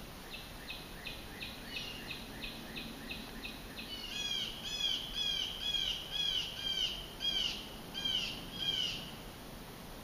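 A bird singing a long run of short, evenly repeated notes, about two to three a second. The notes grow louder and more down-slurred about four seconds in and stop shortly before the end.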